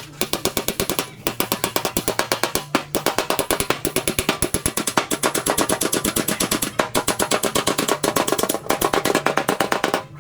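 Rapid hammer taps on a car body's sheet-metal panel, about eight a second, in runs of one to two seconds with short pauses between.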